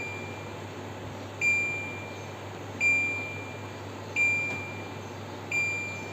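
Air conditioner beeping: a single short electronic beep about every second and a half, each one the unit acknowledging a press on its remote control during testing.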